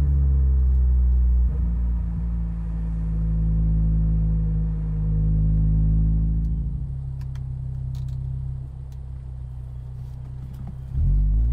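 Naturally aspirated 2.4-litre inline five-cylinder engine of a 2004 Volvo V70, heard through its Borla XR1 muffler while driving. The exhaust note is steady under throttle, with a brief break about a second and a half in. From about seven seconds in it falls back to a quieter rumble off the throttle, then comes back sharply on the throttle near the end.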